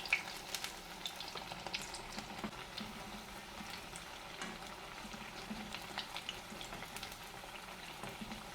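Batter-coated potato patties deep-frying in hot oil in a small kadai: a steady sizzle with frequent small crackling pops.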